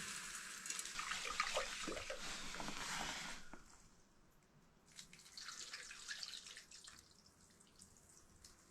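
Water sloshing and pouring in a pot as rice is rinsed, in two spells with a pause of about a second and a half between them.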